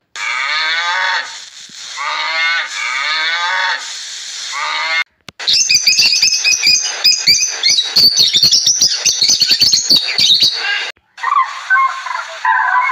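A run of animal calls: cattle giving long wavering moos, then after a short break a pair of red lories squawking and chattering harshly for several seconds, then after another break demoiselle cranes calling.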